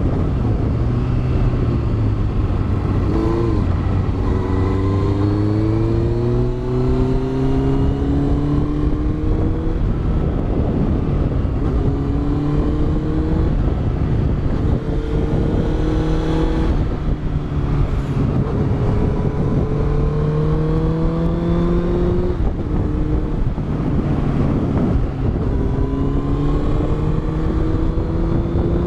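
Honda CBR650F's inline-four engine through a Yoshimura exhaust, pulling in long rising sweeps and dropping back several times as the rider works the throttle and gears on a winding road. Wind rush on the microphone runs underneath.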